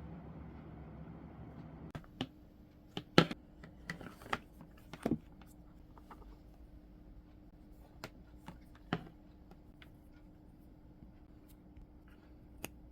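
Small objects being handled: a string of sharp clicks and taps, the loudest about three seconds in, over a steady low hum that starts about two seconds in.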